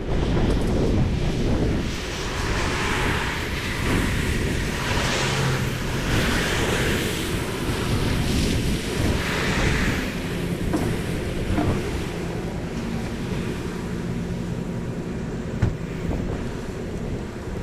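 An engine running steadily, with rushing swells of wind on the microphone that rise and fall every couple of seconds.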